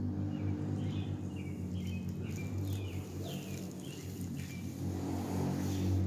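A bird repeating a short, falling chirp about twice a second, the calls stopping a little past the middle, over a steady low rumble.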